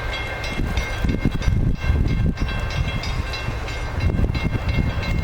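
Amtrak passenger train passing close by, a loud steady rumble with irregular clacks of the wheels over the rails.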